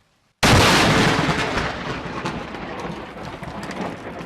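Thunderclap from a close lightning strike: a sudden loud crack about half a second in, followed by a crackling rumble that slowly fades.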